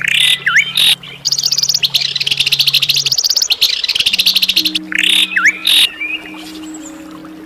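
Songbird singing harsh, rapid high trills broken by sharp, quick whistled notes, a tutoring song recording for cage birds. The song stops about six seconds in, leaving a faint low hum underneath.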